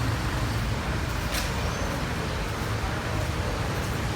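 Motorcycle engine running steadily under a broad rush of wind and road traffic noise, heard from the back of a moving motorbike taxi.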